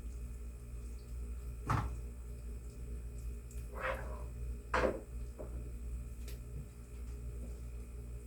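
A cooking utensil knocks and scrapes against the pan a handful of times, the loudest knocks about two and five seconds in, over a steady low hum.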